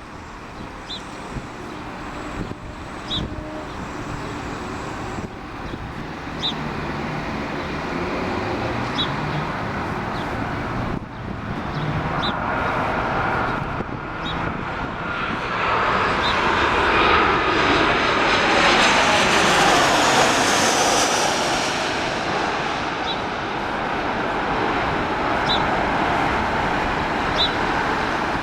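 Canadair regional jet's turbofans passing close on landing approach. The jet noise builds, peaks with a sweeping whine a little past the middle, then eases off.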